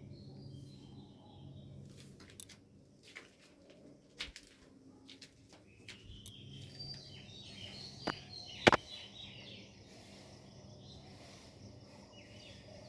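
Quiet eating sounds: scattered clicks and taps against a plate, the loudest a sharp click a little after two-thirds of the way through. Birds chirp in the background.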